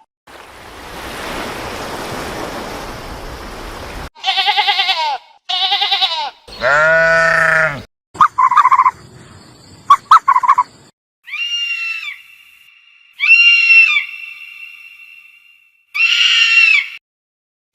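A string of separate animal calls placed one after another. It opens with about four seconds of rasping noise, followed by about ten short pitched cries and calls, several of them wavering like bleats.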